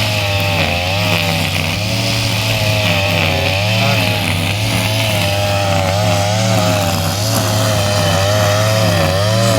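Backpack brush cutter's small engine running while cutting grass, its pitch wavering up and down continuously as the load changes.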